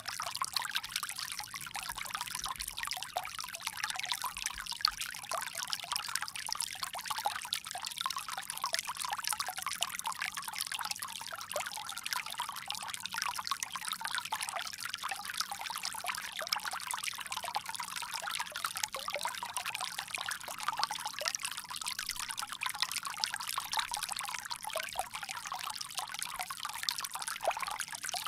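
Water pouring steadily from a bamboo spout, a continuous splashing trickle.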